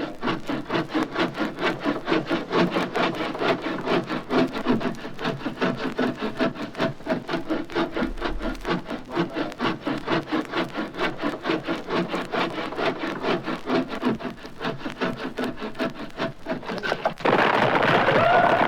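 Long hand saw cutting through a tree limb in quick, even back-and-forth strokes. About seventeen seconds in, the sawing gives way to a sudden louder rushing sound with rising whistling tones.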